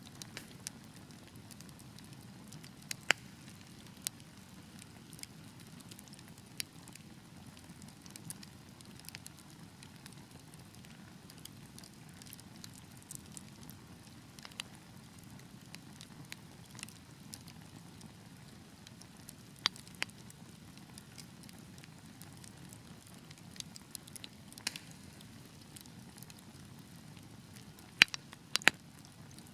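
Wood fire burning in a fireplace, with a low steady rumble and scattered sharp crackles and pops, several louder pops near the end.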